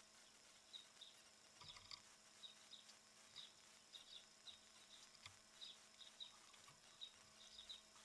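Faint short chirps from small birds, a few a second and irregular, with a few soft clicks and taps among them.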